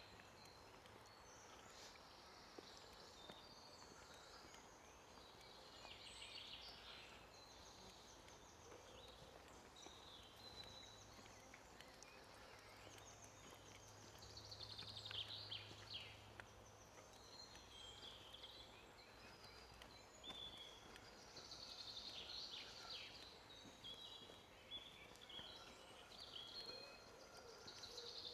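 Faint woodland birdsong: several small birds chirping and trilling on and off.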